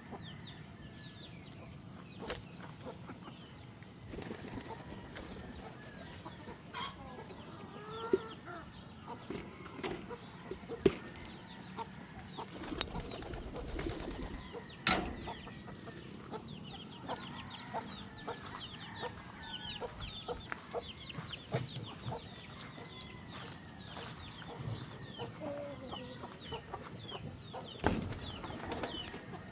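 Chickens clucking with wings flapping, over a busy chatter of short high chirps and scattered sharp knocks.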